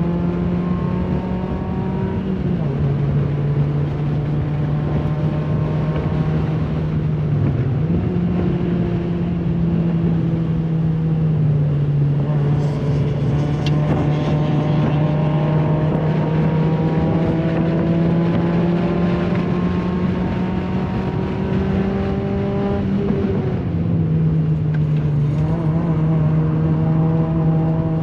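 Muffler-deleted 2008 Honda Fit Sport race car engine pulling hard on track, heard from inside the cabin. The engine note climbs slowly, drops sharply in pitch three times and jumps up once, as gears are changed, over steady road and tyre noise.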